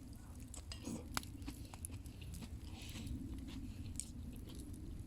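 A person chewing a mouthful of bonfire-grilled meat close to the microphone, with scattered small clicks over a steady low rumble.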